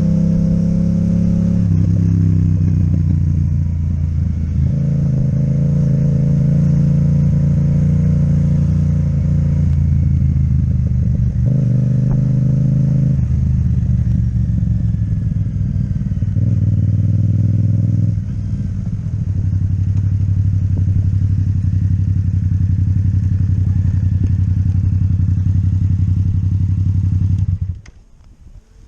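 Yamaha MT-07 parallel-twin engine with an Akrapovic exhaust, running under way; its note steps up and down several times with gear changes and throttle. The sound drops away abruptly near the end.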